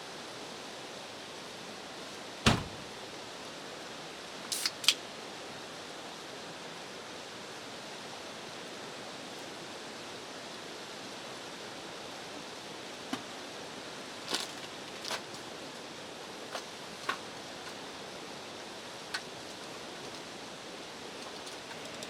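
Steady, even hiss of outdoor ambience, with scattered short, sharp taps; the loudest is a single knock about two and a half seconds in.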